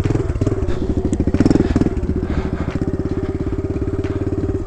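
Kawasaki KLX110's small single-cylinder four-stroke engine idling in a steady, even pulse, with a brief swell about one and a half seconds in.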